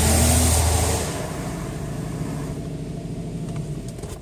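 Automatic car wash machinery running, heard from inside the car: a loud rushing noise over a low hum that drops to a quieter steady rush about a second in.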